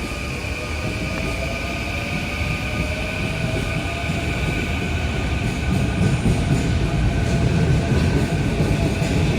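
Sobu Rapid Line electric train pulling out of the station: its motors give a whine that slowly rises in pitch as it gathers speed, and the rumble of the wheels on the rails grows louder from about halfway through.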